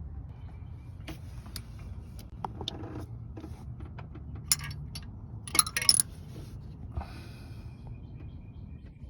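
Scattered light metallic clinks and jingles, loudest in a short cluster around the middle, over a steady low rumble.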